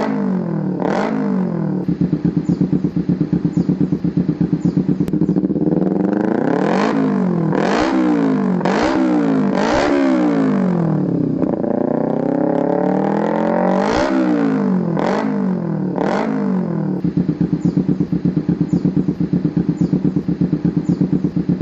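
Yamaha New Vixion Lightning's single-cylinder 150 cc engine breathing through an aftermarket Akrapovic exhaust, idling with a pulsing beat and revved in a string of quick throttle blips. A longer rev rises and falls, a few more blips follow, and it settles back to a steady idle.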